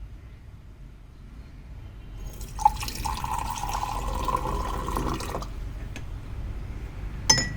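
Water running into a container, likely a jar of rinse water being filled for painting, a rushing, splashing sound for about three seconds that then stops. A single sharp click follows near the end.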